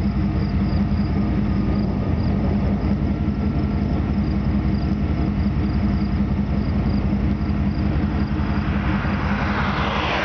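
Steady low vehicle rumble with a constant engine hum, and a faint high chirp of insects repeating evenly above it. A hiss swells near the end.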